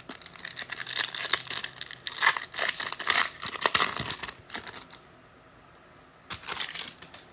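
Foil wrapper of a trading card pack being torn open and crinkled: several seconds of rapid crackling, then one short crinkle near the end.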